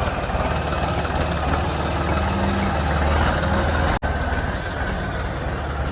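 Tractor diesel engine running steadily with a deep hum, cutting out for an instant about four seconds in.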